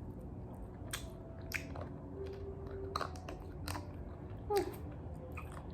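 Short, scattered clicks and soft crunches over a steady low hum.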